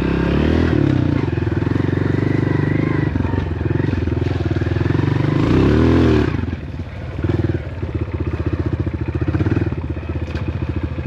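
Dirt bike engine running under way on a trail, revving up in pitch and then backing off sharply about two-thirds of the way through, after which it chugs along at low revs with an even pulse.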